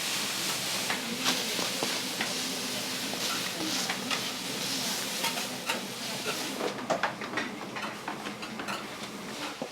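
Food sizzling on a flat iron teppan griddle while metal spatulas scrape and clack against the plate in quick, irregular strokes. The sizzle thins about two-thirds through, leaving the spatula clacks more exposed.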